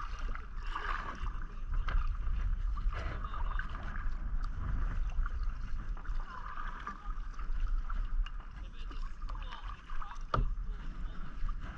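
Kayak paddle strokes dipping and splashing in the water, irregular and continuous, over a steady low rumble. One sharp knock about ten seconds in.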